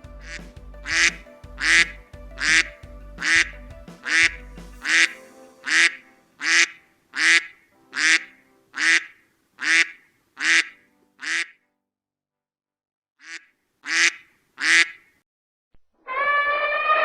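A duck quacking over and over, about one quack a second, then a short pause and three more quacks. About a second before the end, a loud, long, brassy call begins.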